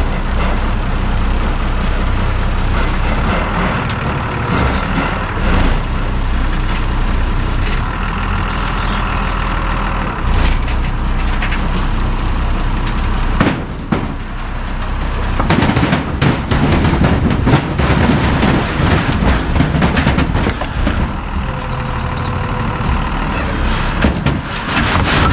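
Forklift engine running as it works, with a steady low hum. About halfway through it gets louder and rougher, with irregular knocks and clatter.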